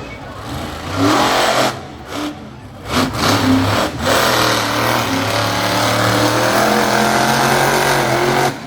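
Monster truck engine revving: a short loud burst about a second in, then a long loud run from about three seconds in that drops off near the end.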